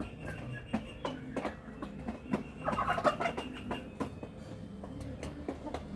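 Chickens feeding, with frequent quick taps of pecking at feed and one loud call from a bird about halfway through.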